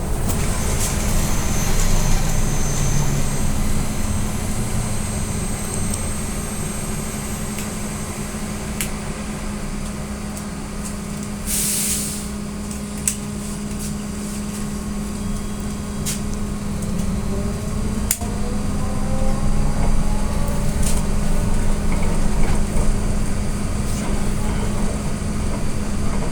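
Inside an AKSM-321 trolleybus under way: a steady electrical hum over road rumble, a short hiss of air about halfway through, and a rising electric whine as it picks up speed in the latter part.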